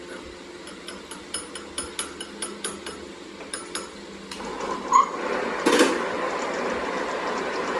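A hammer tapping on metal about a dozen times, roughly three light ringing strikes a second, in a machine shop; then about four seconds in a machine starts up and runs steadily, with a short squeal and a loud burst of noise just after.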